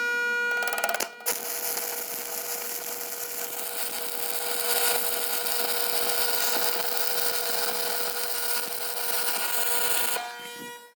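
Electric power tool running with a steady motor whine, then biting into steel for about nine seconds with a harsh hiss over the whine. It stops and spins down near the end.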